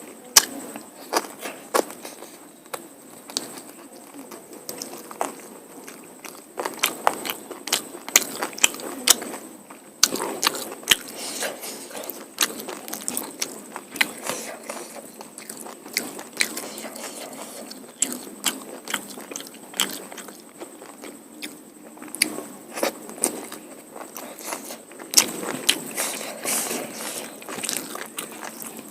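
Close-up eating sounds of mutton curry and polao rice: wet chewing with many sharp, irregular mouth clicks and smacks.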